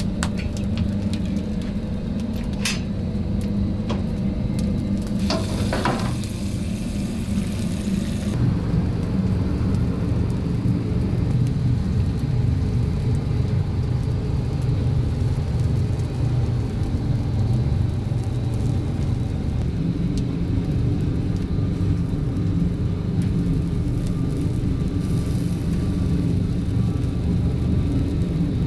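Chicken cooking at a wood-fired roasting grill: a steady low rumble with sizzling, and a few sharp clicks in the first several seconds.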